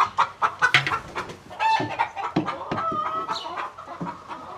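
Chickens clucking: a run of short, sharp calls, with one longer drawn-out call about three seconds in.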